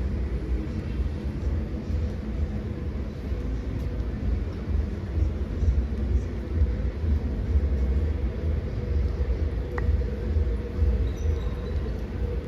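Steady low rumble of city traffic, with a single faint click about ten seconds in.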